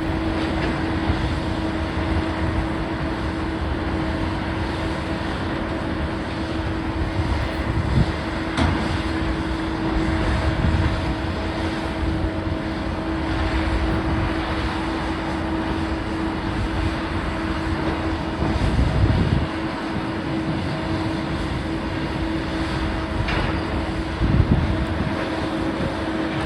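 Heavy demolition machinery running steadily with a constant whine, with a few brief knocks or clanks, one about eight seconds in and another near the end.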